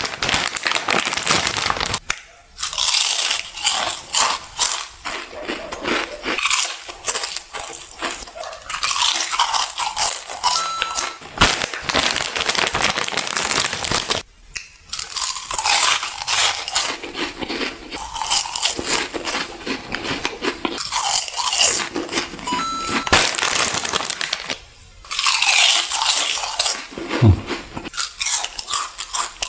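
Crunchy food being bitten and chewed close to the microphone: dense, crackly crunching that pauses briefly three times.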